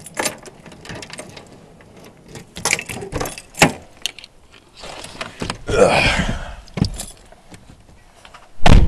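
Someone climbing into a car: scattered clicks and knocks, keys jangling and rustling, then a single loud heavy thud near the end as the car door shuts.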